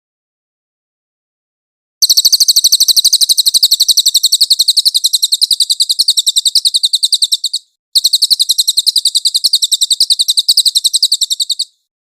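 Cililin song: after two seconds of silence, a long, rapid, high-pitched trill of evenly repeated notes runs for about six seconds, breaks briefly, then a second trill runs for about four seconds.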